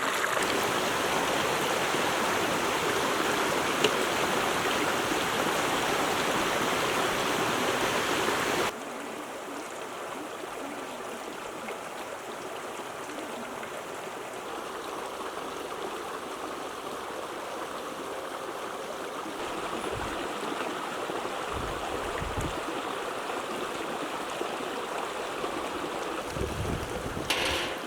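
Flowing water rushing steadily, like a stream. It drops abruptly to a quieter rush about nine seconds in, and a few low thumps come near the end.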